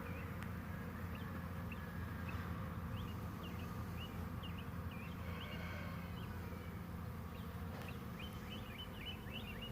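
Honey bees buzzing around a hive entrance: a steady low hum, with faint short high chirps scattered over it.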